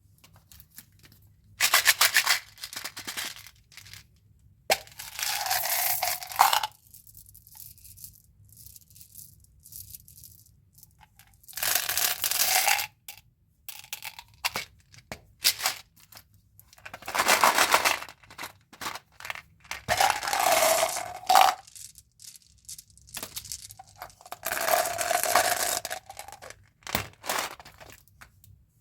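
Gum and candy packaging being handled and opened in about six short bursts of rattling and crinkling, with small clicks and taps in between.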